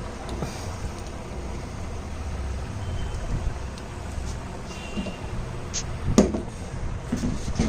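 Low steady rumble with a few light clicks, and one sharper knock about six seconds in.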